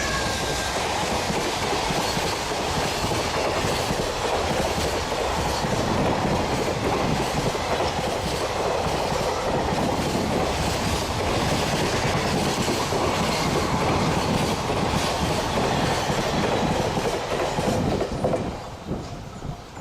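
Freight train passing close by: a long string of wagons rolls past with wheels clattering over the rail joints. The sound falls away sharply near the end as the tail of the train goes by.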